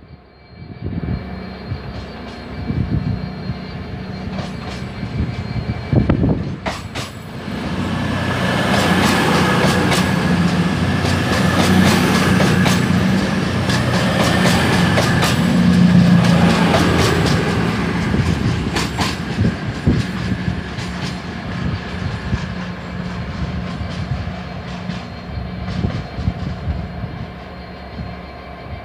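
A diesel passenger train moving past, its engine note building from about seven seconds in, loudest midway, then fading. Wheels click over the rail joints throughout.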